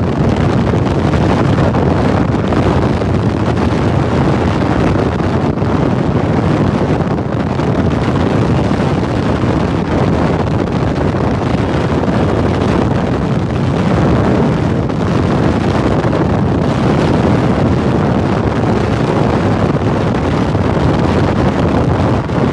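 Steady, loud wind rush buffeting the microphone of a motorcycle ridden at speed.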